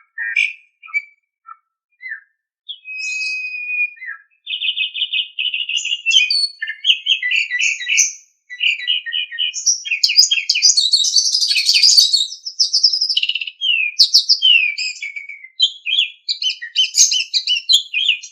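Asian pied starling (jalak suren) singing. First a few scattered short notes and one long clear whistle, then from about four seconds in a continuous run of fast, varied chattering and whistled phrases that gets busier and higher about halfway through.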